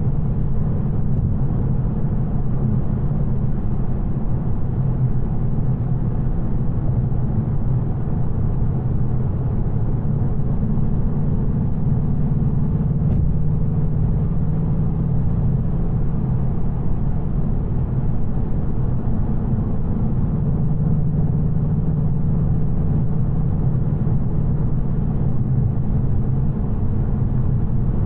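2024 Ford Mustang GT's 5.0-litre V8 on its stock exhaust, running at a steady cruise with a constant low drone and road noise, no revving or shifts.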